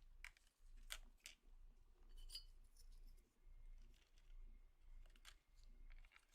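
Near silence broken by a few faint clicks and clinks and light scraping, the sound of small metal pistol parts being handled during a restoration.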